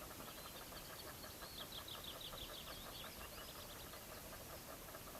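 Faint birdsong: a run of quick high chirps through the middle, over a steady, fast, faint pulsing lower down.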